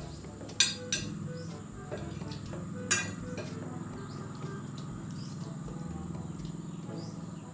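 Cutlery clinking against a plate a few times while someone eats, over a steady low background hum.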